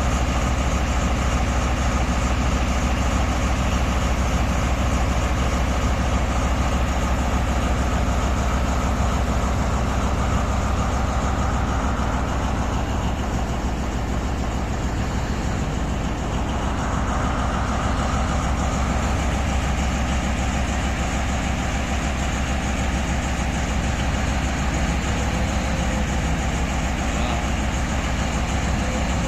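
Heavy diesel engine idling steadily with a deep, constant rumble.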